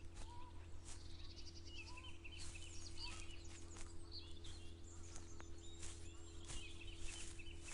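Several birds chirping and trilling in a morning chorus, with quick repeated notes overlapping throughout, over a faint steady low hum.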